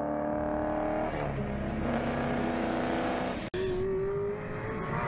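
Car engine running and accelerating, its tone shifting in pitch. The sound drops out for an instant about three and a half seconds in, then an engine tone carries on, rising slightly.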